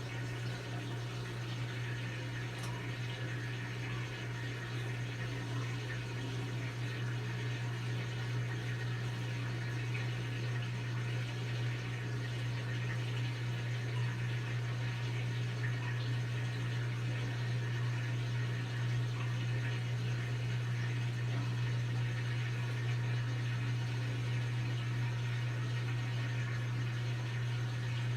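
Brastemp BWK17 17 kg washing machine filling with water: a steady rush of running water over a steady low hum, growing slightly louder.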